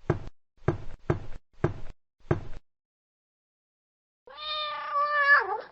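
Five quick knocks, followed about two seconds later by a single cat meow of just over a second that drops in pitch at the end, a sound effect for "cat".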